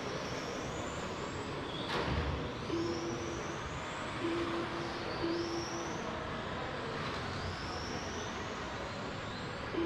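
Electric RC racing cars running laps, their motors giving a high rising whine again and again as they accelerate. There is a sharp click about two seconds in.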